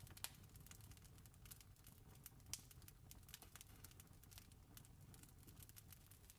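Faint wood fire crackling, a steady scatter of small irregular pops with two sharper snaps, one just after the start and one about two and a half seconds in, over a faint low rumble.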